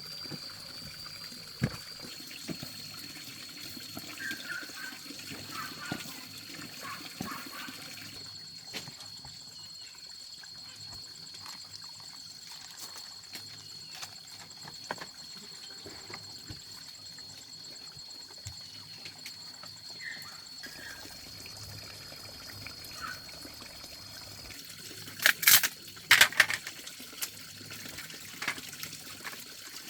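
Water trickling and pouring, with scattered small clicks and a steady faint high tone. A few loud sharp knocks come about 25 seconds in.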